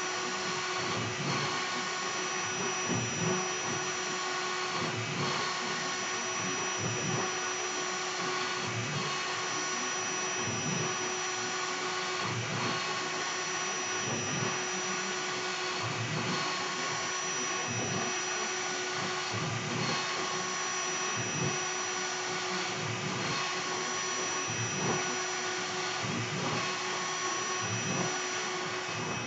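Air-cooled 2.2 kW CNC router spindle running at speed while V-carving wood: a steady high whine over a whoosh of airflow and cutting noise, with some tones dropping in and out as the bit's load changes.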